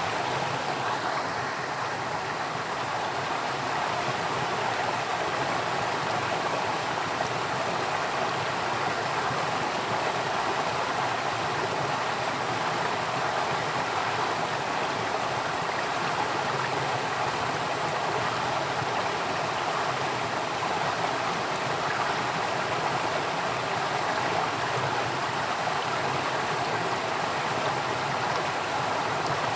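Water flowing steadily in a stream, an even rushing with no pauses or changes.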